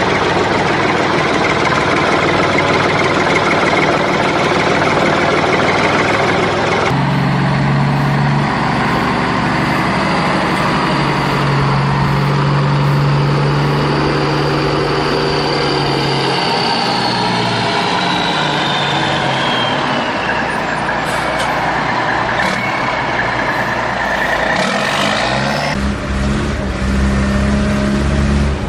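Heavy vehicle engines running steadily. The sound changes abruptly twice, about a quarter of the way in and near the end, and a high whine falls slowly in pitch through the middle.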